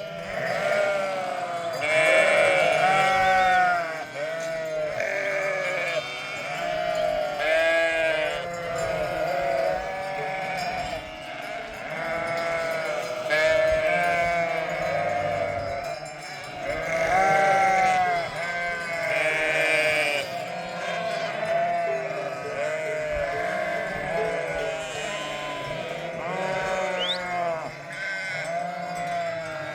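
A flock of sheep bleating, many animals calling over one another without a break.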